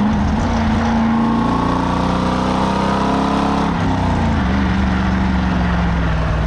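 Chevrolet Corvette C5 Z06's LS6 V8 pulling under acceleration, its note climbing slowly in pitch. About three and a half seconds in the pitch drops suddenly as it shifts up a gear, then it pulls on at a lower note.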